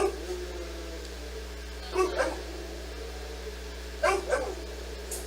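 A dog barking in short barks, once at the start, then a quick pair about two seconds in and another pair about four seconds in.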